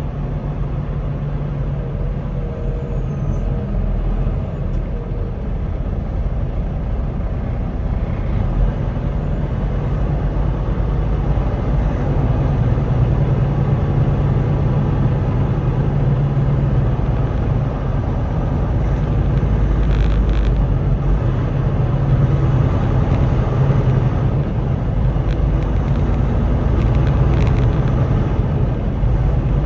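Semi-truck running down the highway: a steady low engine drone with road noise.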